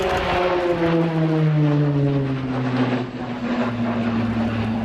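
Short Tucano T1's Garrett TPE331 turboprop engine and propeller as the aircraft flies past, with a distinct buzzing note that falls steadily in pitch and then levels off.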